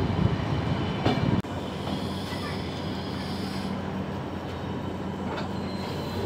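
Passenger train's carriages running along the rails, heard from the side of a moving coach, with a steady low hum beneath the wheel and rail noise. The noise drops suddenly about a second and a half in, then runs on evenly.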